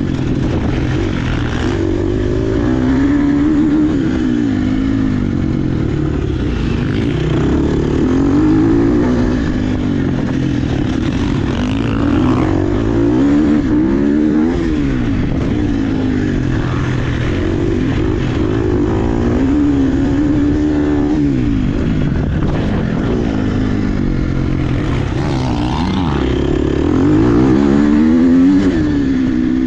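Dirt bike engine being ridden hard, revving up and falling back over and over, every second or two, as the rider works the throttle.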